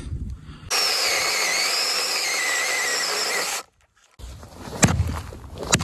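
Mini cordless chainsaw running and cutting into a dead red oak for about three seconds, a high motor whine wavering over the chain noise, then stopping abruptly. A few light knocks and handling sounds follow.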